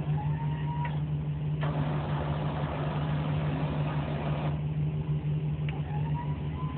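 Truck's 6.2-litre gas engine idling steadily, with the crane's motor whining up to a steady pitch twice, at the start and near the end. A louder rush of noise runs for about three seconds in the middle.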